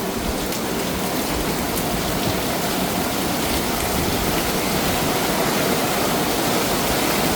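Heavy monsoon rain with water pouring down like a waterfall, a steady rushing that grows slowly louder.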